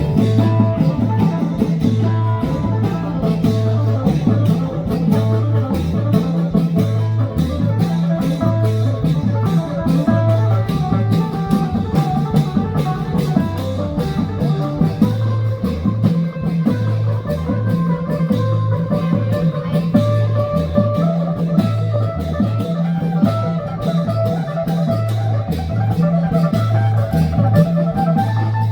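Live band music with a steady, repeating bass-drum beat under a plucked string melody.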